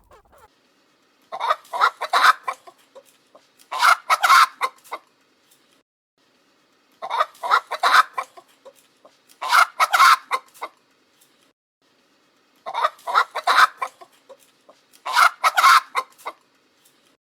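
Chickens clucking in six loud bursts of about a second each, coming in three pairs with silence between them.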